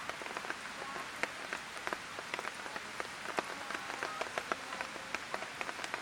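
Light rain falling, with a steady hiss and many irregular, sharp ticks of drops striking hard surfaces.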